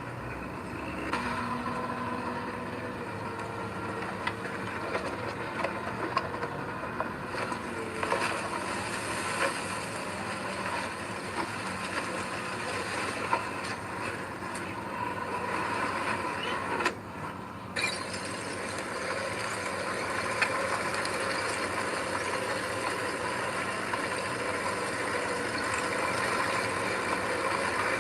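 Heavy earthmoving machinery running, a diesel engine with occasional sharp clanks and rattles of metal. The sound dips briefly about seventeen seconds in.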